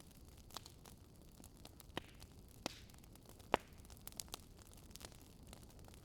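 Wood fire crackling: irregular sharp pops and snaps over a low, steady hiss of burning, with one louder pop in the middle.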